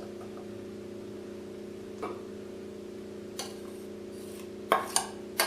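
A few short, sharp taps of a utensil against the blender jar as the pureed pumpkin is scraped in, over a steady low hum. One tap comes about two seconds in, another at three and a half seconds, and three close together near the end.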